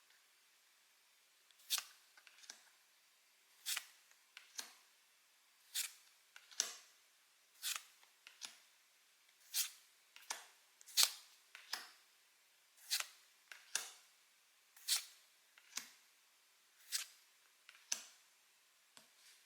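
Pokémon trading cards being handled one by one, each card snapping crisply as it is flicked or slid off the stack, about once a second.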